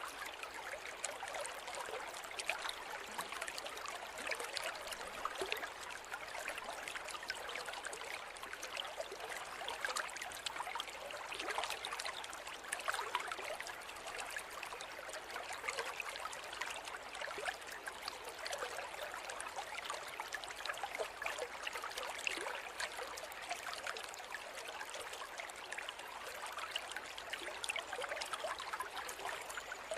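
River water flowing over stones, a steady rushing and babbling with small splashes throughout.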